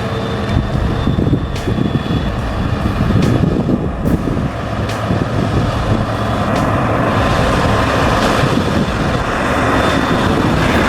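Heavy truck engine running, with scattered sharp clicks over a dense low rumble. The sound grows fuller and brighter about seven seconds in.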